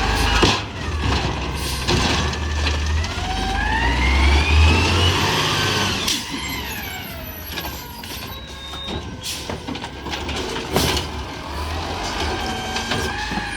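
Diesel engine of a Peterbilt 320 recycling truck with a mini Amrep side-loader body revving: its whine climbs steadily for several seconds, then drops back about halfway through. A heavy low rumble runs under it, with occasional knocks and clatter.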